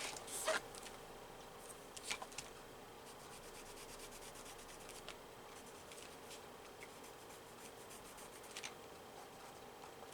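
Colouring on paper: a run of quick, faint back-and-forth scratching strokes, with a few sharp clicks near the start and one more near the end.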